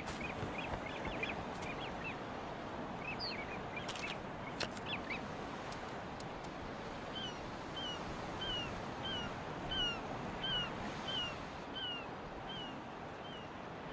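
A bird calling: a few scattered short chirps at first, then from about seven seconds in a regular run of about a dozen short, falling calls, roughly two a second, over a steady hiss of coastal breeze.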